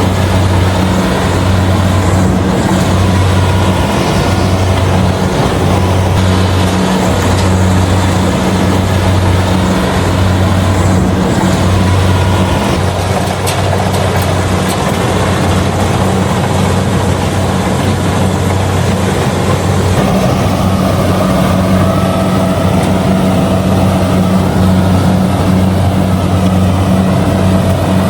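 Kubota DC70G combine harvester working through rice, its diesel engine and threshing machinery running together in a loud, steady drone. A deep hum underneath wavers during the first dozen seconds and then holds steadier.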